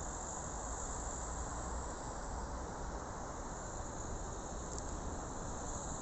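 Steady outdoor background noise: a low, even rumble of distant traffic and trains under a constant high hiss, with no distinct events.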